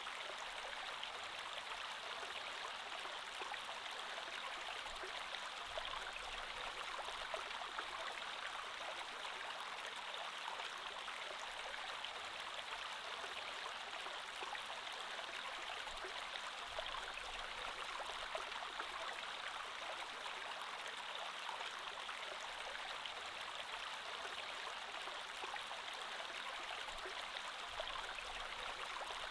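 Creek water flowing steadily over stones, an even rushing with small trickles and gurgles.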